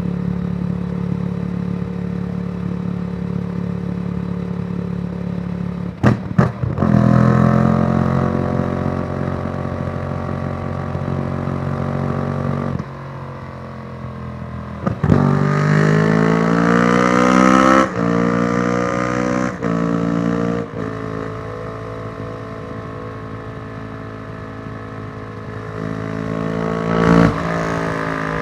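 A 2014 Yamaha YZF-R1's crossplane inline-four revs through a Yoshimura exhaust with an uneven, twin-like beat. It runs steadily, then pulls through rising revs with sharp cracks on the shifts about six seconds in. It shuts off suddenly, pulls hard again midway and rolls off, then picks up once more near the end.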